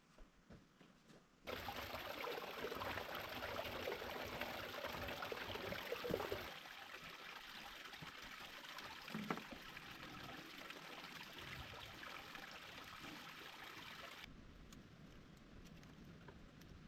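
Running water of a stream or spring, a steady rushing and trickling that cuts in suddenly about a second and a half in, drops a little about halfway through and cuts out near the end.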